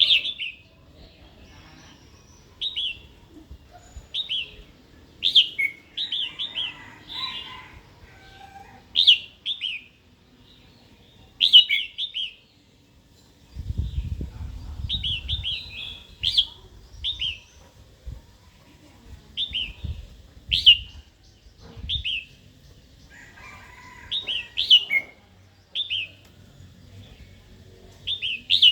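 Female red-whiskered bulbul giving its sharp, short call notes, repeated every second or two, singly and in quick runs of two or three: the provoking calls used to stir up a newly caught male. A low rumble sounds for a few seconds in the middle.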